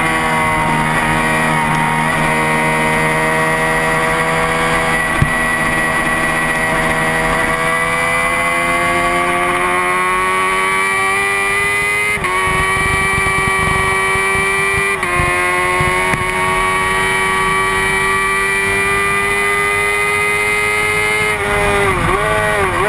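Honda CBR600RR inline-four engine held at high revs, its pitch climbing steadily under throttle. It is cut briefly twice by quick upshifts about twelve and fifteen seconds in. Near the end there is a quick dip and rise in pitch.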